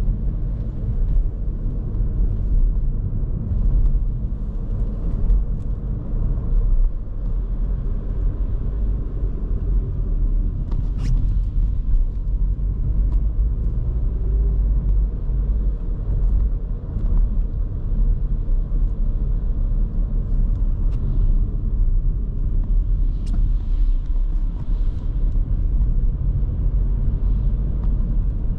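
2023 Škoda Kamiq's 1.0 TSI three-cylinder turbo petrol engine and tyre and road noise, heard from inside the cabin while driving at steady speed: a continuous low rumble, with a couple of faint clicks.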